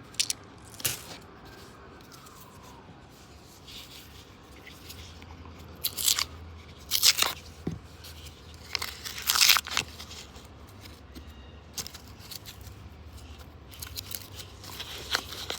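Paper wrappers of $2 coin rolls being torn open and crinkled, in several short crackly bursts.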